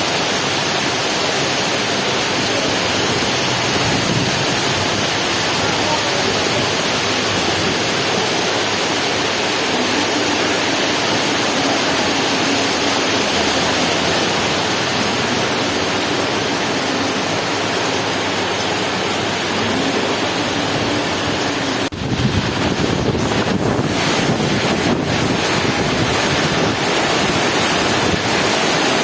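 Heavy rain pouring down in a loud, steady hiss, with a brief sudden break about three-quarters of the way through.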